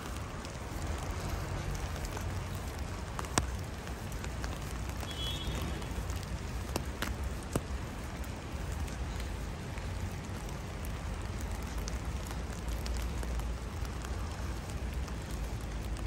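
Sleet and rain falling, a steady hiss over a low rumble, with a few sharp taps, the loudest about three seconds in and two more near the middle.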